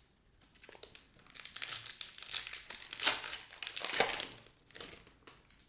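Plastic wrapper of a Topps Chrome Sapphire trading-card pack crinkling and being torn open, a dense crackle that is loudest about three and four seconds in.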